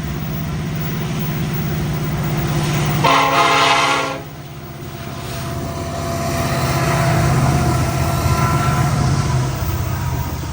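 Diesel locomotive running by with one blast of its multi-note air horn, a little over a second long, about three seconds in; the engine then grows louder and eases off near the end.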